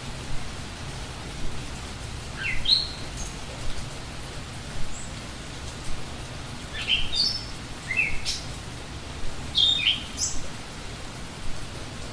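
A bird singing short phrases of quick notes that step upward in pitch, about four phrases a few seconds apart, over a steady background hiss.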